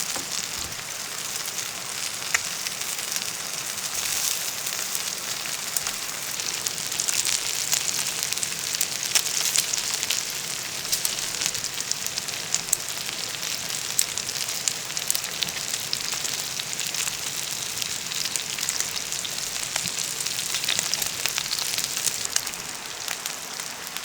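Food frying in oil in a hot pan: a steady sizzle with many small crackles and pops.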